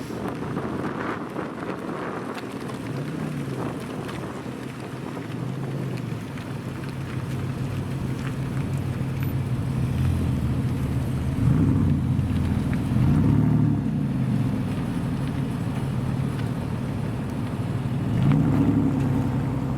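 Supercar engine running with a steady low note and several short revs, its pitch rising and falling each time. The biggest revs come around the middle and near the end.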